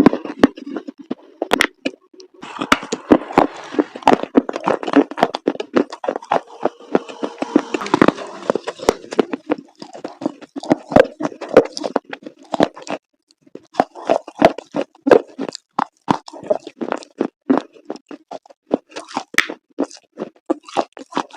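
Chalk pieces coated in wet paste being crunched: dense crackling and snapping, then after a short lull about halfway through, separate crunches.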